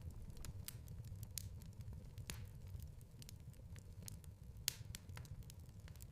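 Wood fire crackling in a fireplace: frequent irregular snaps and pops over a low steady rumble, with one louder pop about three-quarters of the way through.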